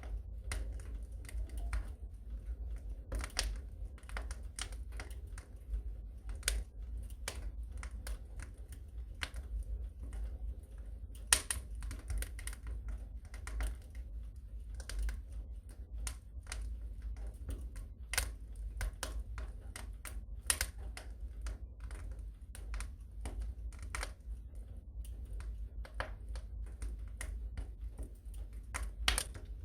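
Wood fire crackling in a fireplace: irregular sharp snaps and pops over a steady low rumble, with one louder pop about eleven seconds in.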